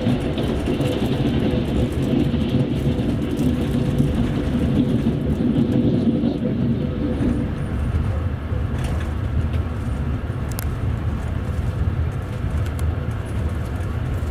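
Steady rumble of a double-decker passenger coach running on the rails, heard from inside on the upper deck. A faint steady tone sits under it, with a few light clicks.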